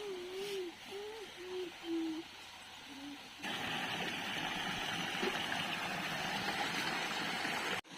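A low, wavering hooting tone in short phrases for about three seconds. After a sudden cut, a steady rush of flowing water follows until just before the end.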